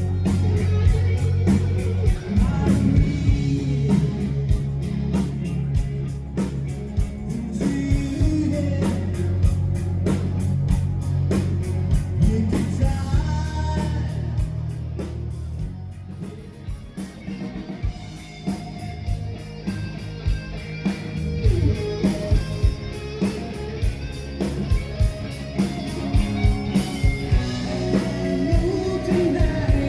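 Live rock band playing: guitar, bass and drums with a steady beat, and singing. The bass and drums drop back for a few seconds past the middle, then come in full again.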